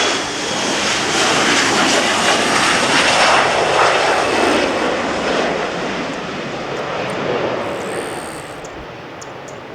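Jet airliner's engines at takeoff thrust, a loud wide roar that is strongest in the first half and then fades away as the aircraft climbs out.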